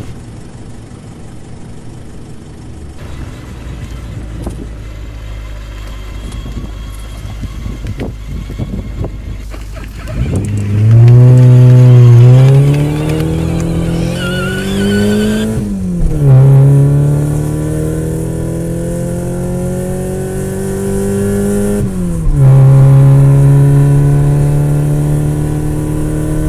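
Car engine running low and steady, then from about ten seconds in accelerating: its note climbs, drops sharply at two gear changes, and settles to a steady cruise near the end.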